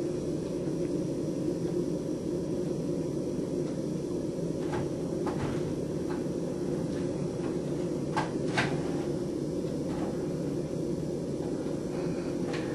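Storm wind blowing steadily, with a few short knocks or rattles about halfway through, two of them close together near the two-thirds mark.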